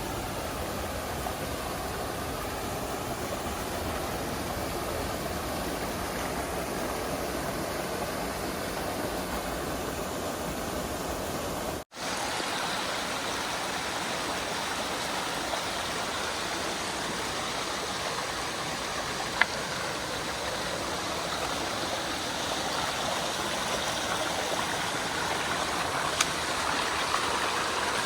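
Water rushing down a rocky stream, a steady noise. It drops out for an instant about midway and comes back brighter and hissier, with a few faint clicks near the end.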